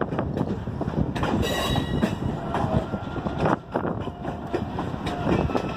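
Railroad cars rolling past close by: steady rumble with irregular wheel clicks over rail joints and brief high wheel squeals.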